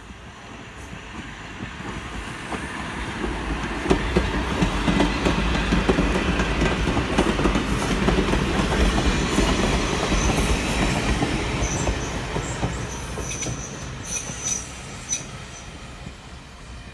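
Two-car Illinois Terminal electric interurban train passing close by on steel rails: the rumble and clatter of its wheels builds as it approaches, peaks as the cars go past, then fades as it draws away, with a few short high squeals of the wheels near the end.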